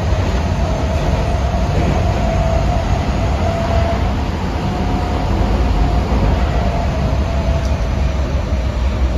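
Osaka Metro 23 series subway train with Hitachi IGBT-VVVF traction equipment running between stations, heard inside the car: a steady low rumble with a held whine over it.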